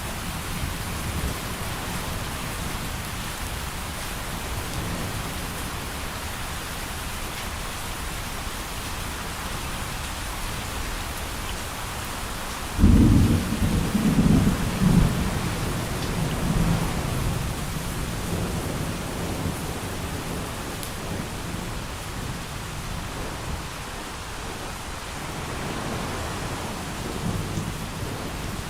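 Steady heavy rain, with a sudden loud clap of thunder about halfway through that rumbles on for several seconds before fading back into the rain.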